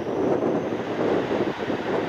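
Aircraft engine noise mixed with gusty wind buffeting the microphone.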